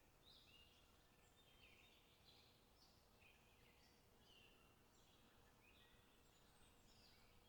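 Faint birdsong: many short chirping notes from small birds, coming one after another throughout, over a low background hiss.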